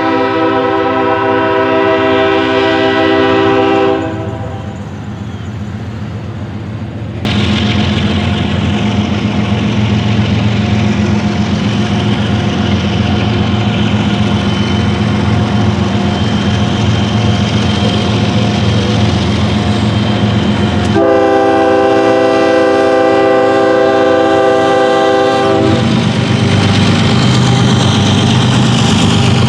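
Diesel locomotive air horn sounding a long multi-note chord, then the rumble of a train running by. A second long horn blast comes about two-thirds of the way through, and the low throb of the locomotive's engine follows it.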